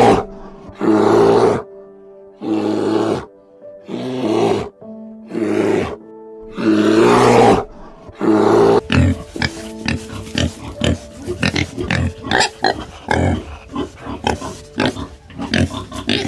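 Background music with animal calls over it. First come about six long, loud, breathy growls or huffs, each about a second long and spaced a second and a half apart. From about nine seconds on they give way to a rapid run of short pig grunts.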